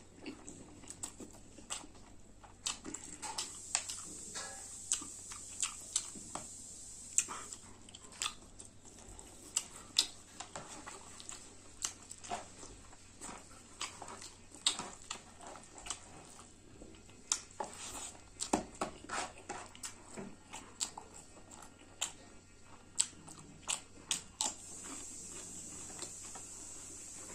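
Close-up eating sounds of a person chewing spicy buffalo meat with rice: a long run of wet, irregular clicks from the mouth, several a second, continuing throughout.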